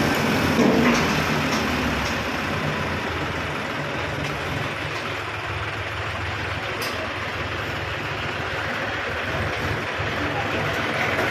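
Tractor engine running steadily, easing a little in the first couple of seconds and then holding even.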